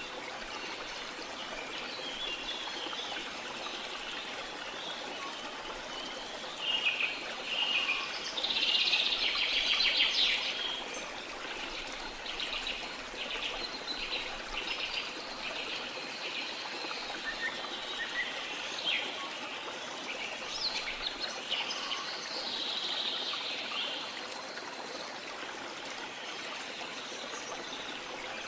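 Steady rush of falling water, with tropical forest birds calling over it: a loud spell of calls about eight to ten seconds in, a run of quick repeated notes after it, and more scattered calls around twenty seconds.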